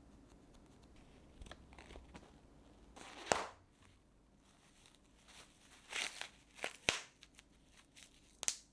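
Handling noises: a scatter of short crinkles and sharp clicks, loudest about three seconds in and again around six to seven seconds in.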